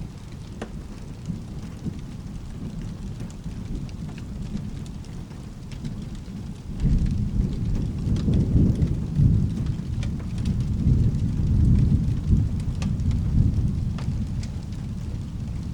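Steady rain with a low rolling thunder rumble that swells suddenly about seven seconds in, stays loud for several seconds, then eases near the end.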